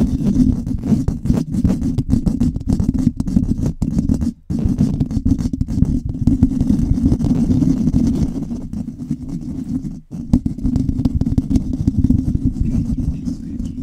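Fingers scratching a microphone fast and hard, giving a dense, low, rumbling scratch that stops for a moment twice, about four and ten seconds in.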